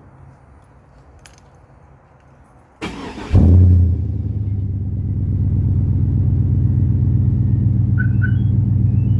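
2001 GMC Yukon's 5.3-litre V8, fitted with JBA shorty headers and a true-dual exhaust with H-pipe dumping under the rear bumper, is cranked by the starter and fires about three seconds in. It flares up loudly on catching, then settles to a steady idle.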